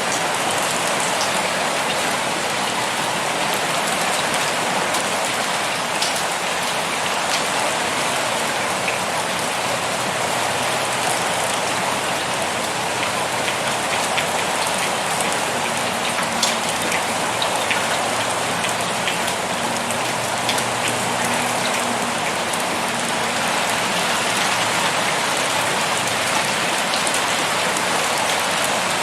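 Heavy rain pouring steadily onto surfaces, a dense even hiss with the odd sharper drop tick standing out. A faint low hum sits under it through the middle stretch.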